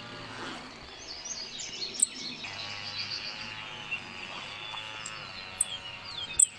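Field recording of a grasshopper sparrow's 'tsipt' call, a very high, sharp little double note heard a few times. Other birds chirp and a chainsaw runs steadily in the background.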